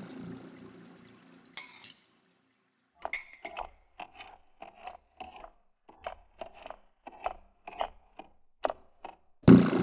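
A struck ringing tone fades away, then after a pause comes an uneven series of short sharp clinks, about two a second. A loud new sound comes in near the end.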